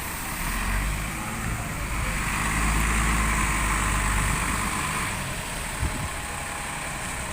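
Diesel engine of an Alexander Dennis Enviro400 double-decker bus running as it goes by, a low rumble that swells about two seconds in and dies away after about five seconds. A single short knock comes near the end.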